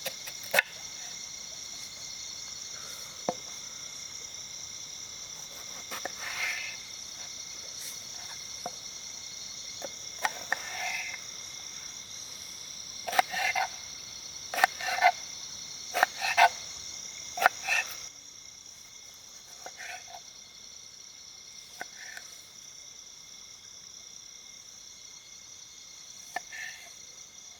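Frogs croaking in short calls scattered every second or few seconds, over a steady high-pitched insect drone.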